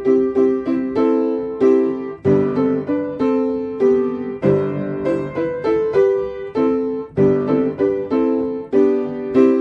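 Piano playing a hymn tune in chords, each chord struck and left to ring and fade before the next.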